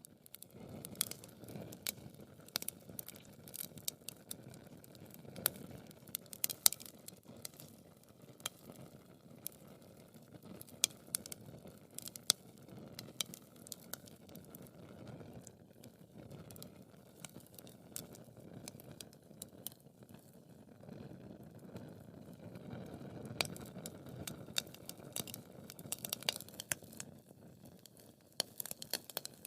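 Wood fire burning in a fireplace: many irregular sharp crackles and pops over a low, steady rush of flames.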